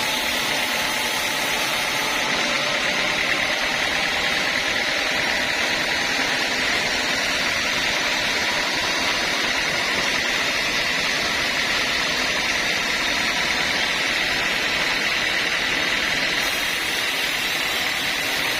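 Sawmill machinery running steadily: continuous loud machine noise with a constant high whine.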